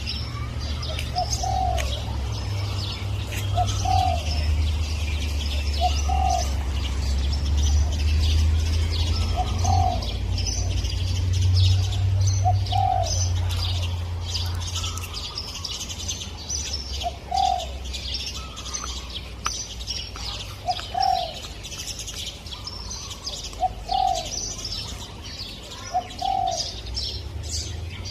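Spotted dove cooing: short low coos repeated every two to three seconds, over a chorus of small birds chirping high above, with a low rumble through the first half.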